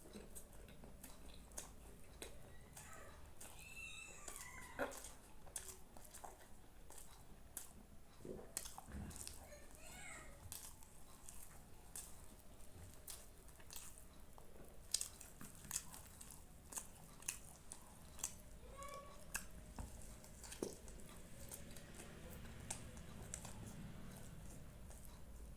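A person chewing food close to the microphone, with many small wet mouth clicks and smacks scattered throughout.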